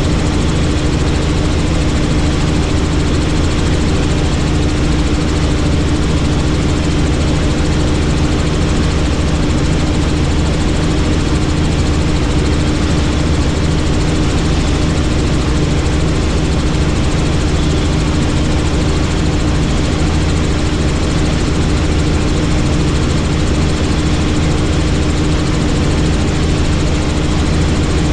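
Helicopter in flight: loud, even engine and rotor noise with a steady hum in it, unchanging.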